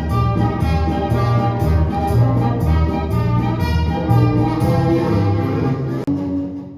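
Orchestral music with brass over a steady march beat of about two beats a second, fading out near the end.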